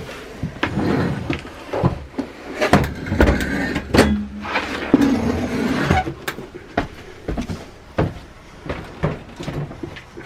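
Metal knocks, clanks and scraping as seat and railing hardware is pulled apart and dragged out inside a coach bus; the scraping is loudest in the middle few seconds.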